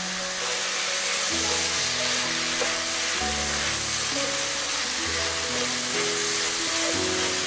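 Pork, ginger and spring onion stir-fry sizzling in a frying pan as it is stirred, a steady hiss. Soft background music with held notes plays underneath.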